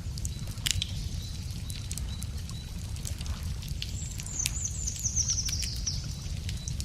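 Wood fire crackling, with scattered sharp pops over a steady low rumble. About four seconds in, a songbird sings a short high trill that falls in pitch and speeds up.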